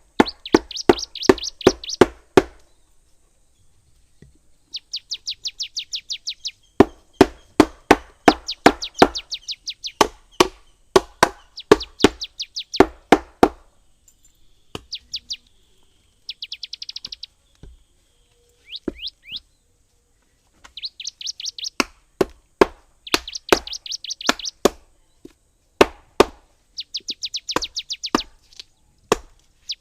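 A bird sings in fast, high chirping trills, again and again. Runs of sharp knocks, several a second, come in bursts between and alongside the trills.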